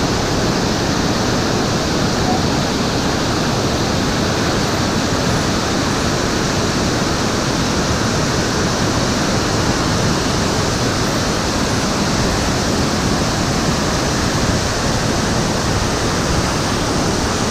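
Iguazú Falls pouring: a loud, steady rush of heavy falling water.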